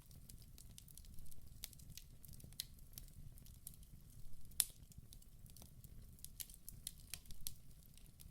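Wood fire burning in a fireplace: a steady low rumble of flames with frequent irregular crackles and pops, the sharpest pop about four and a half seconds in.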